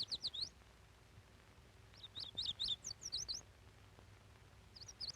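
Nestling birds chirping in three quick bursts of short, high, downward-sliding notes.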